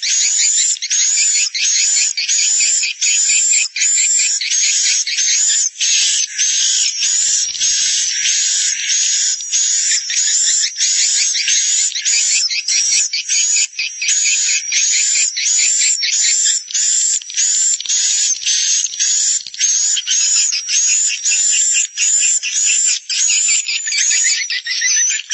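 Swiftlet lure recording ('suara inap', the roosting call played to draw swiftlets to stay in a swiftlet house): rapid, high chirps repeating about twice a second in a dense, unbroken run. It sounds thin and filtered, with no low end.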